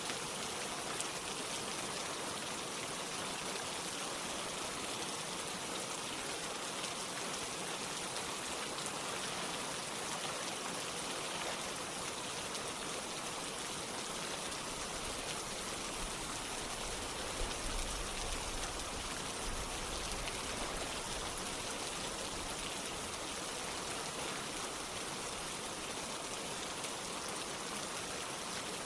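Steady rain falling together with running water, an even hiss of drops and flow. A brief low rumble swells up about halfway through.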